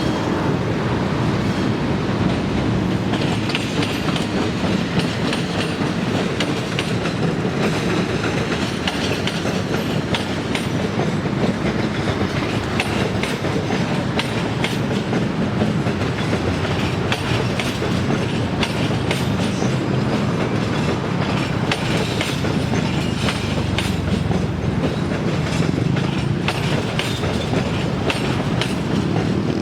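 A train rolling past, its wheels clacking over the rail joints amid steady rumble and rail noise.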